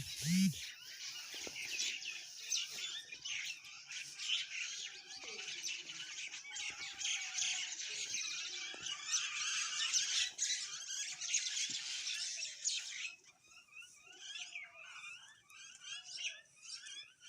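Many wild birds singing and chirping at once in a dense chorus of quick high chirps and trills. About thirteen seconds in it thins out to scattered separate calls.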